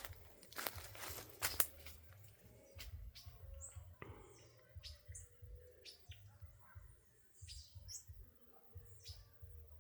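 Small bird chirping: short, high notes that slide downward, repeated about once a second. Near the start come a couple of sharp rustles or steps, the loudest sounds here.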